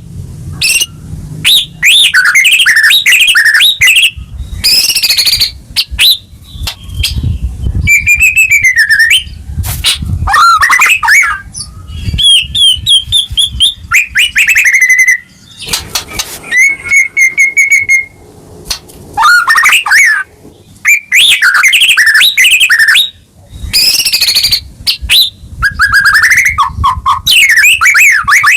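White-rumped shama (murai batu) singing loudly in a long, varied string of phrases: swooping whistles, rapid trills and fast repeated notes, with short pauses between bursts.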